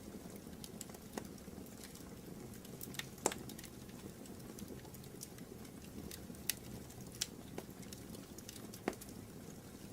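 Wood fire crackling in a fireplace: a low steady rush of flames with scattered sharp pops and snaps, the loudest about three seconds in and a few more in the second half.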